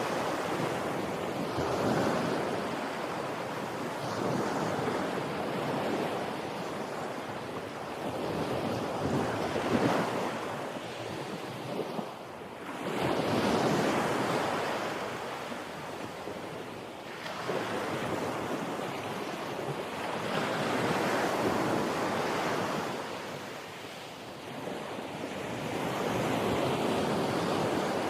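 Ocean waves surging and washing in, the rushing noise swelling and falling away every few seconds.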